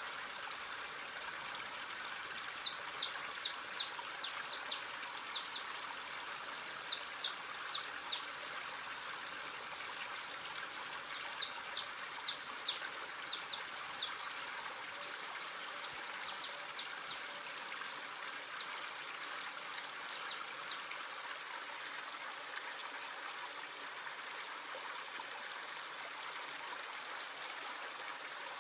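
A stream running steadily, with a small bird calling in quick runs of short, high, falling chirps for most of the time; the chirps stop about three-quarters of the way through, leaving only the water.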